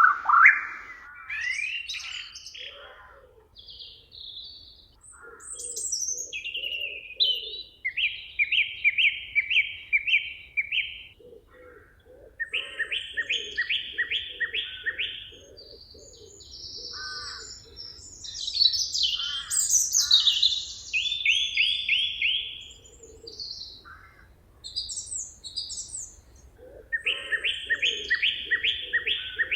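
Songbirds singing: repeated trilled phrases of two to three seconds, each a quick run of notes, with short chirps and calls in between.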